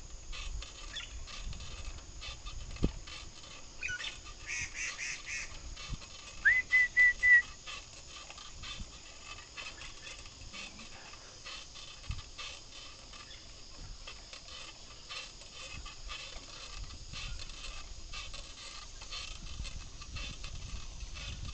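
Birds calling: a few short high calls about four seconds in, then a run of about five quick, clear notes just after, over a faint steady hiss of travel noise.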